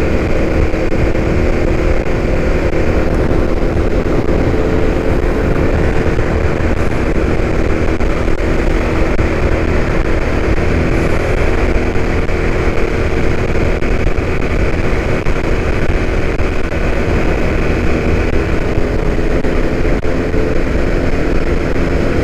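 Motorcycle engine running steadily at cruising speed, with a constant rushing noise of wind and road underneath.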